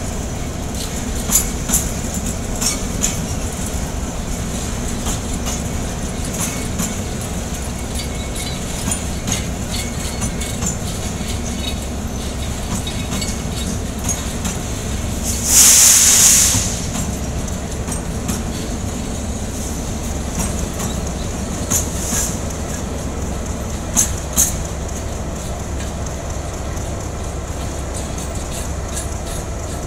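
Container freight train's wagons rolling past: a steady low rumble with scattered sharp wheel clacks over rail joints. A loud high-pitched screech lasting about a second comes just past halfway.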